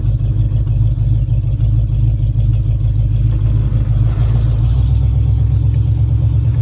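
AMC Matador's V8 engine running steadily, a loud, low, even pulsing, with a shift in its low note about two-thirds of the way in.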